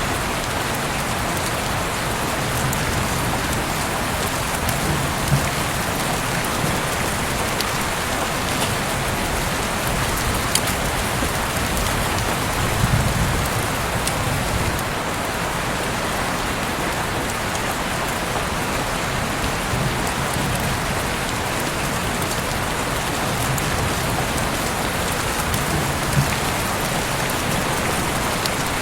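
Heavy rain pouring steadily: a dense, even hiss of falling rain with a few sharper, louder drop strikes now and then.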